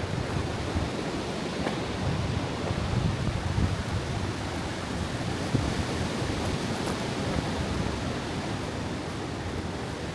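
Steady outdoor rushing noise, strongest in the low range, with no distinct events.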